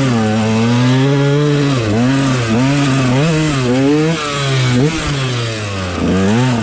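Dirt bike engine revving under throttle: fairly steady for about two seconds, then the throttle is blipped on and off so the engine note dips and rises again and again, about twice a second.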